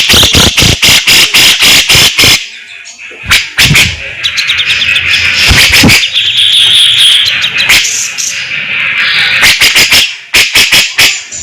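Grey-cheeked bulbul (cucak jenggot) singing loudly in fast runs of sharp, harsh rattling notes (besetan), broken by denser rasping phrases in the middle.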